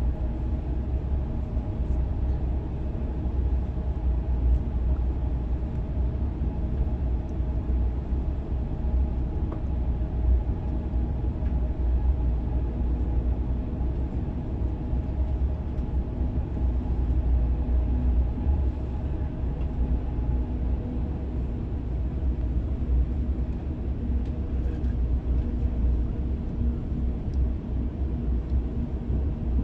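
Inside the passenger cabin of an SR 120000-series high-speed train, a steady low rumble of the train running along the line, with a faint steady hum above it.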